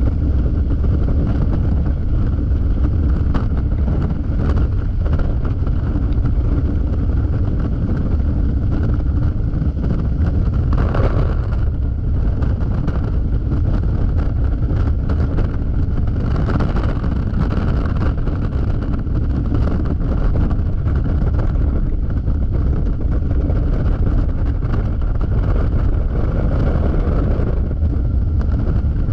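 Wind rushing over the helmet or bike camera's microphone and the steady running of a Yamaha XMAX scooter ridden at speed, a deep, even rumble with a couple of brief swells.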